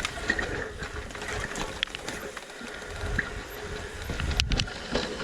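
Mountain bike rolling down a wet, muddy trail: tyres on loose dirt with a low rumble, and the bike rattling with many small clicks and knocks.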